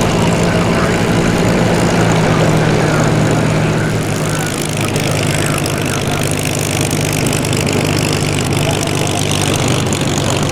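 Piston engines of a large formation of Spitfire and Hurricane fighters droning overhead in a flypast, a steady propeller-aircraft drone that drops slightly in pitch about four and a half seconds in as the formation passes.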